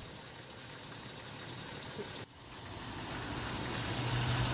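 Car engine running. After a brief dip about two seconds in, a steady low hum builds and grows louder toward the end.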